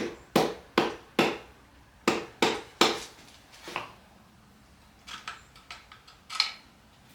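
Sharp hammer taps on engine parts, knocking connecting rods and pistons loose from the crank: four quick taps about half a second apart, then three more, followed by lighter knocks and clicks and one harder tap near the end.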